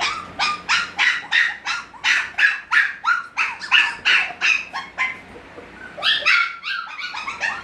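Six-week-old Havanese puppies crying in a quick run of short, high-pitched yelps, about three a second, breaking off briefly about five seconds in and then starting again.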